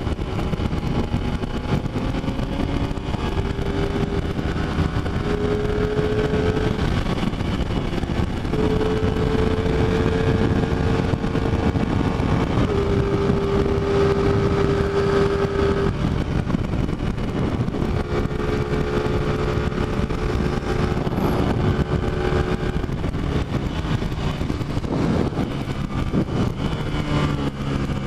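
Motorcycle engine running at a steady cruising speed under heavy wind rush on the microphone, its pitch drifting slowly up and down with small throttle changes.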